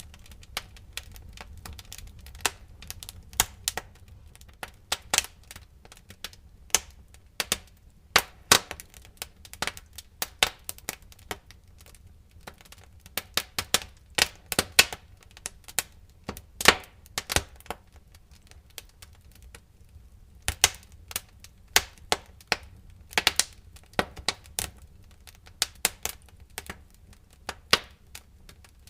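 Wood fire in a fireplace crackling: irregular sharp pops and snaps, sometimes several in quick succession, over a low steady rumble.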